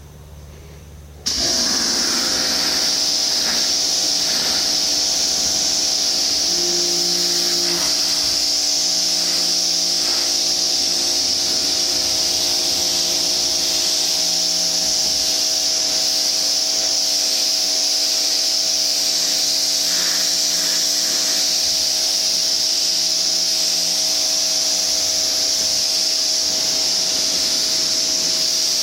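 Greenworks 2000 psi electric pressure washer running, a steady motor whine under the loud, even hiss of its water jet spraying a tin roof; it starts about a second in and runs without a break.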